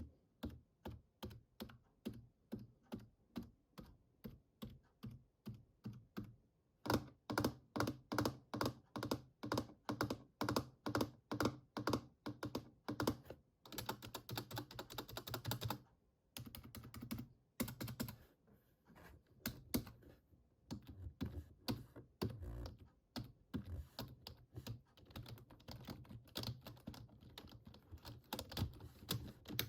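Computer keyboard keys tapped by fingers: even taps about two to three a second for the first half, then a fast run of typing-like clatter, and quicker irregular tapping after that.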